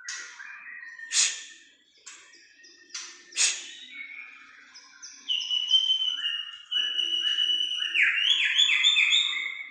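Songbird singing a varied song of whistles and sharp chirps, the kind of bird-sound recording played to prompt a white-rumped shama to sing. Two loud sharp chirps come about a second and three and a half seconds in, then longer clear whistled notes, and near the end a fast run of repeated notes.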